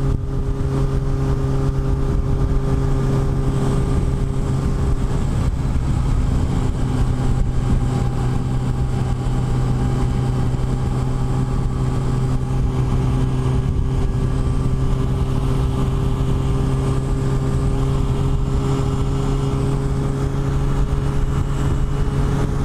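Yamaha FJR1300 sport-touring motorcycle's inline-four engine running at a steady cruising speed, its pitch holding level throughout, with heavy wind rush over the microphone.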